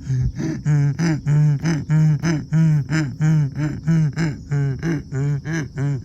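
Donkey braying: a long run of rhythmic hee-haw calls, alternating high wheezing and steady lower honks about three to four times a second.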